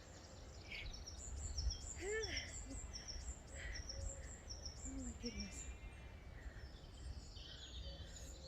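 Songbirds singing: a run of short, high chirps repeating about twice a second, with other calls between them, over a low steady rumble.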